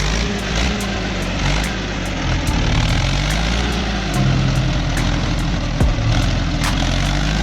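Diesel engine of a log-laden skidder working hard as it climbs a steep slope, its pitch rising and falling with the load.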